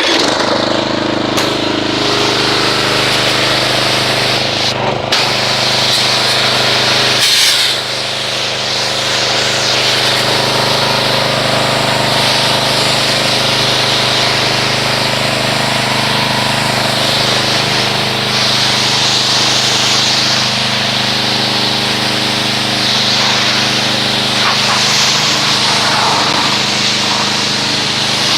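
Pressure washer running with its pump humming, spraying a water jet to rinse car-wash foam off a car. There is a brief dip in the spray about seven seconds in.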